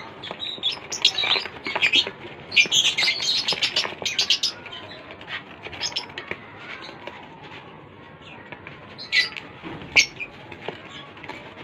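Small pet birds chirping, many short, high chirps in a dense flurry over the first few seconds, then scattered calls with two louder ones near the end.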